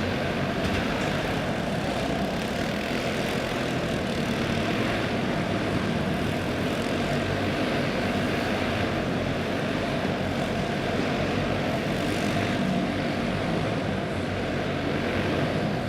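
A pack of dirt-track racing karts with small single-cylinder clone engines running flat out together, a steady, dense buzzing drone of many engines at racing speed.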